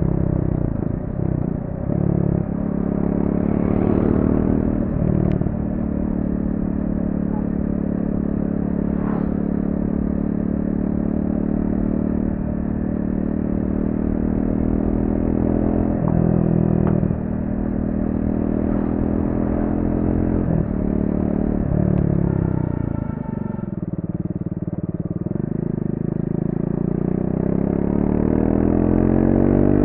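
Triumph Speed 400's single-cylinder engine through its stock exhaust, running while being ridden through corners. The pitch shifts with throttle and gear changes. It falls to low revs about three quarters of the way through, then climbs steadily near the end as the bike accelerates.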